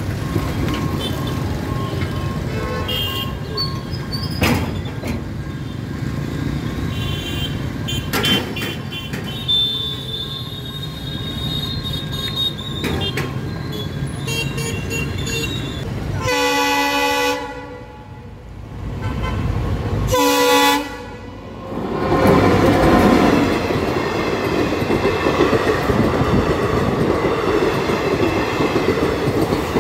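Road traffic running through a railway level crossing. Then a passenger train sounds two horn blasts about four seconds apart, each about a second long, and its coaches run past close by, the wheels rumbling and clattering on the rails.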